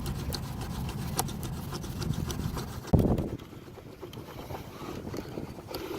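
Bamboo fire saw being worked: one bamboo piece rasped back and forth across the notched bamboo, the wood hot enough to smoke. There is a loud thump about halfway, and it is quieter after that.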